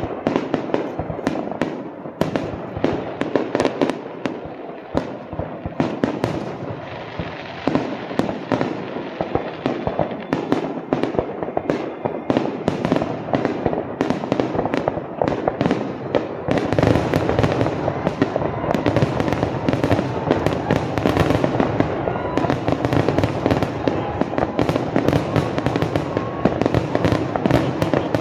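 Aerial fireworks display: shells bursting in a continuous string of bangs. About two-thirds of the way through it thickens into a denser, louder barrage.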